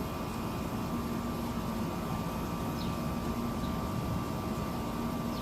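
Steady background hum and rumble with no distinct events, plus a faint constant high tone.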